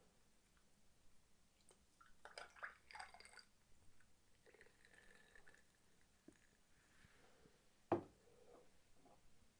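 Faint, wet eating sounds of saucy spicy tteokbokki: soft squishing and small clicks, a cluster of them about two to three seconds in, and a single sharp knock near the end.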